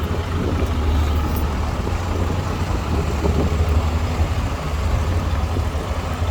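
Heavy diesel engine running steadily with a deep, unbroken drone.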